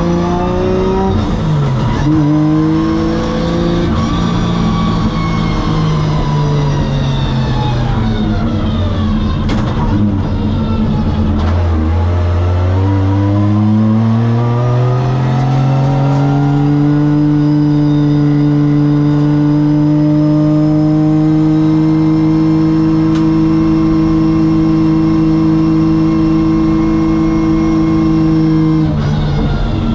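Drift car's 950-horsepower 3.4-litre stroker 2JZ turbo straight-six revving up and down through a run, then held at near-steady revs for about twelve seconds before the revs drop just before the end.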